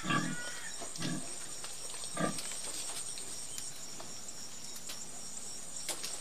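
Pigs grunting, three short grunts in the first couple of seconds, over a faint steady high hiss.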